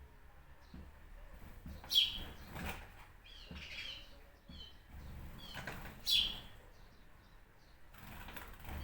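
Small birds chirping in short, high notes, with two louder chirps about two seconds and six seconds in and fainter ones between. Brief rustling noises are mixed in, of the kind that wing flutter makes.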